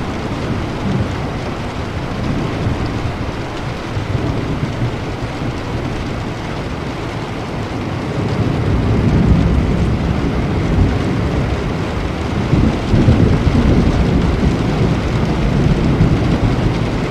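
Steady rain with low rolling thunder, the rumble swelling about halfway through and again near the end.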